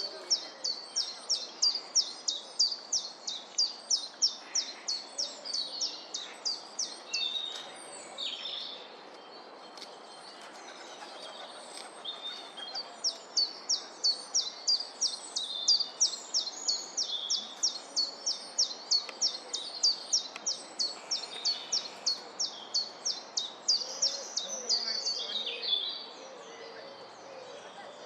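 A bird calling a long, fast series of identical short high notes, about five a second, pausing for a few seconds in the middle before starting again.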